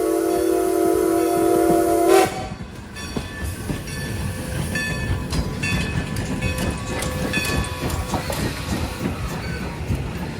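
Steam locomotive whistle held on one chord that cuts off about two seconds in, followed by the rumble and clanking of the train running on the rails, with faint metallic squeals.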